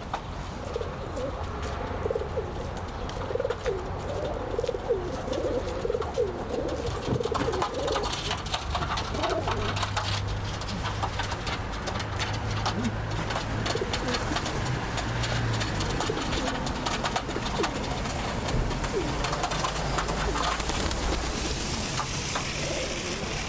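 Birds calling: a run of low, wavering calls in the first several seconds, then fainter scattered ones, with many short clicks and taps throughout.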